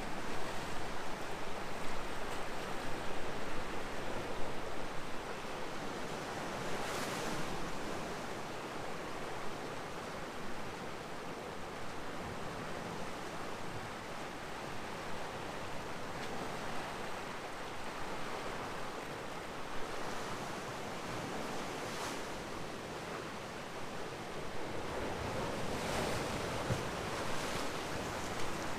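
Ocean surf washing against the rocks below, a steady rush of waves with a few louder surges, about seven seconds in, at about twenty-two and at about twenty-six seconds.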